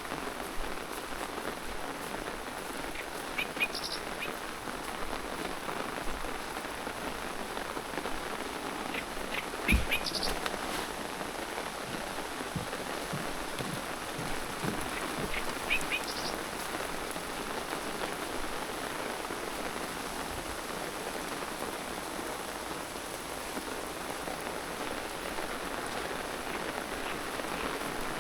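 Steady rain falling and pattering on surfaces. A bird gives short high chirps about every six seconds, and there is a single soft thump about ten seconds in.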